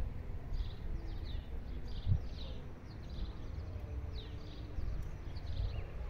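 Small birds chirping over and over, each call a short quick falling note, several a second, over a low rumble of handling noise with one thump about two seconds in.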